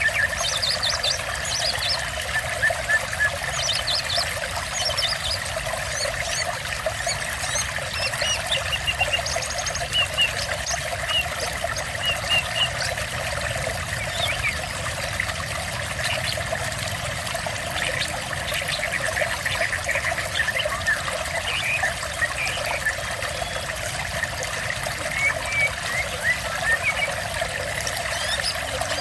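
Steady trickling, splashing water, with small birds chirping in short scattered notes over it throughout.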